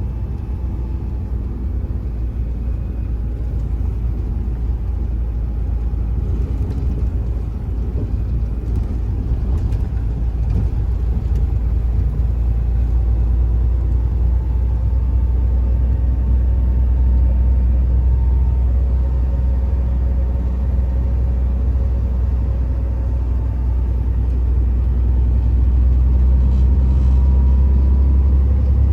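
Truck driving on the road: a steady low rumble of diesel engine and road noise that grows gradually louder.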